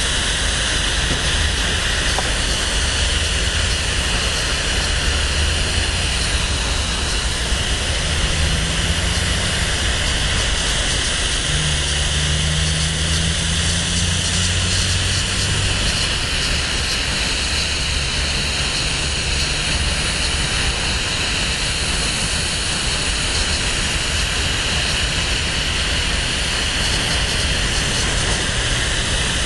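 Freight cars of a BNSF merchandise train rolling past: a steady rumble and hiss of steel wheels on rail. A faint low drone comes and goes in the middle.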